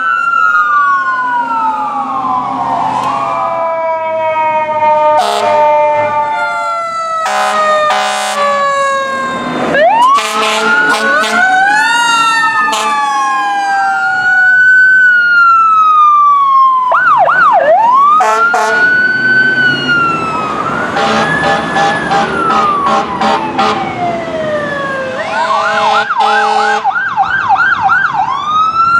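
Fire-truck sirens wailing, with rising and falling tones and stretches of fast yelp, interrupted by several blasts of air horns. The horn blasts are strongest about a third of the way in and again past the middle.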